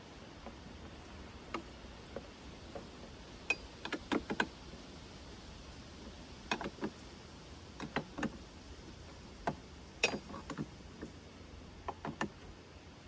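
Irregular metallic clicks and clinks of a wrench and steel parts being handled while a sawmill's saw guide is adjusted, a few strikes ringing briefly; the loudest comes about ten seconds in.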